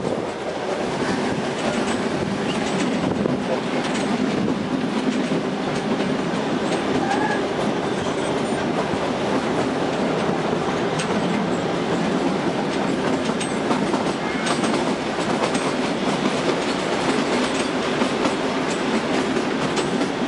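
Narrow-gauge Kalka–Shimla toy train coach running along the track, heard from inside the carriage by an open window: a steady rumble of the running gear with scattered clicks of wheels over rail joints.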